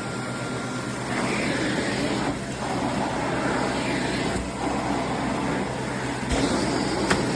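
Bissell Zing bagless canister vacuum running: a steady motor hum under rushing suction air that swells and falls every second or so, with a single click near the end.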